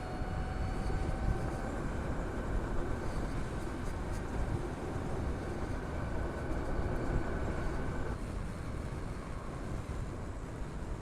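Harley-Davidson LiveWire electric motorcycle on the move: a steady rush of wind on the helmet microphone under a thin, high electric-motor whine that climbs slightly in pitch and cuts off about eight seconds in.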